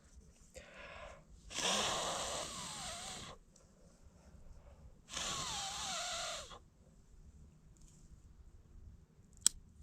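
Two long, hard blows of breath, each about a second and a half, blown onto kindling to get a campfire going, with a faint falling whistle in each; a single sharp click near the end.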